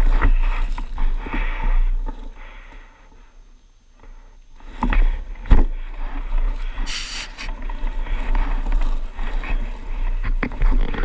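Wind buffeting the microphone, with rattles and knocks from a bike rolling over a rough trail. It eases off briefly about three to four seconds in, with a sharp knock about five and a half seconds in and a short hiss near the seven-second mark.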